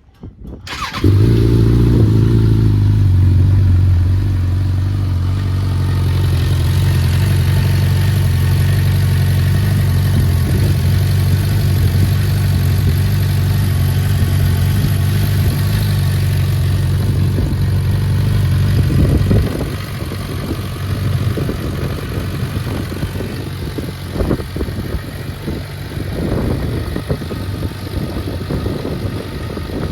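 Suzuki GSF650S Bandit's inline-four engine starting about a second in and then running at a steady idle through a Black Widow aftermarket exhaust with its dB killer fitted. The idle is a little higher just after start and settles; about two-thirds of the way through it gets somewhat quieter, with a few short uneven surges after.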